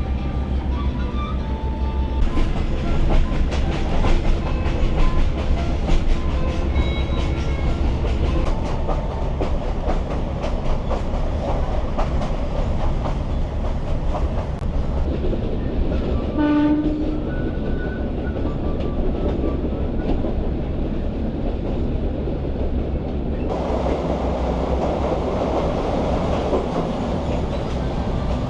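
PeruRail passenger train running on the rails: a steady low rumble with the rattling and clicking of wheels over the track joints. A brief tone sounds about two-thirds of the way through, and the rushing noise grows louder from about 23 seconds in.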